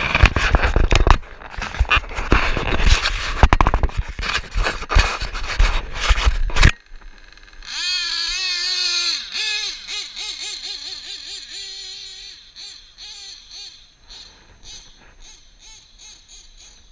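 Nitro RC truggy with a Novarossi .28 engine running: a loud, rough rattling stretch that cuts off abruptly, then the engine's high note wavering up and down as the throttle is worked and fading away.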